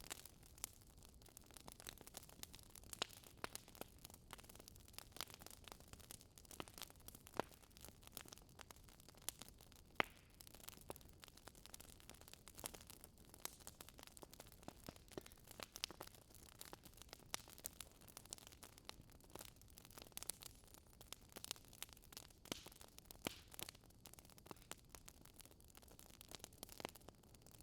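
Wood fire in a fireplace crackling: irregular sharp pops and snaps over a faint steady hiss, with one louder pop about ten seconds in.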